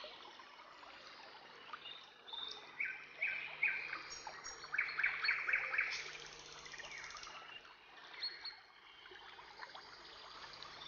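Birds chirping and calling in many different voices over a soft background hiss. Around the middle comes a quick run of about eight repeated notes.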